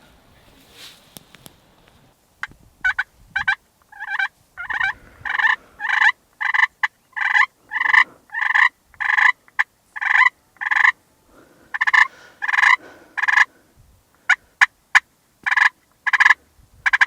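Wild turkey calling: a long run of short, loud, evenly spaced notes, about two a second, starting a couple of seconds in.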